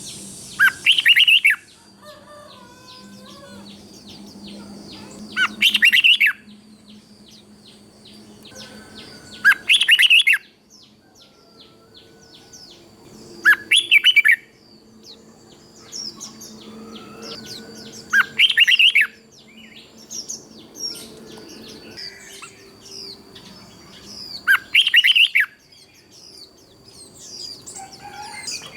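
Red-whiskered bulbul singing: a short, loud, chirpy phrase repeated six times, about every four to five seconds, with softer chirps and a thin, steady high tone in between.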